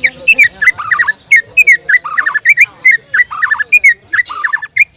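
White-rumped shama (murai batu) singing loudly: a fast, unbroken run of varied whistled notes and short trills, several a second, that breaks off near the end.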